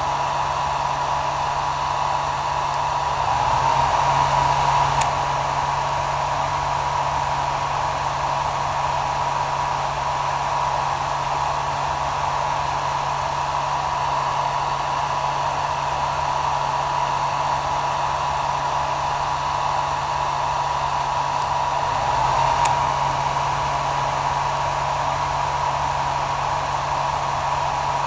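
Hair dryer running steadily: even airflow noise with a steady high whine and a low hum. It swells briefly twice, a few seconds in and again about three-quarters through.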